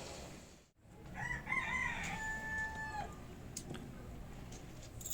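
A rooster crowing once: a call of about two seconds that rises and then holds level before breaking off. A sharp click follows near the end.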